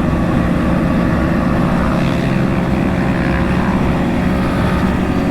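Motorcycle engine running at a steady cruise, with wind rush over it.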